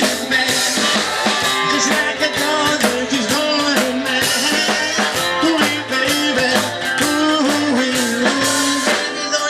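A rock and roll band playing live, with a drum kit keeping a steady beat under guitar and a held, bending melody line.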